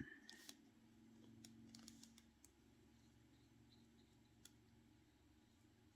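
Near silence: room tone with a few faint light clicks, mostly in the first half.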